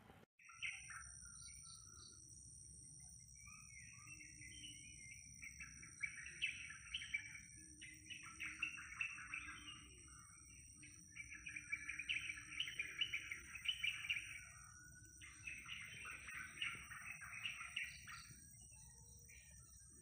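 Birds chirping and singing in several busy bouts of song, over two steady high-pitched tones and a low background rumble.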